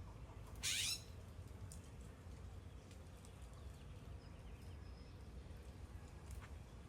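Birds calling: one loud, harsh call under a second in, then faint high chirps and short calls, over a steady low rumble.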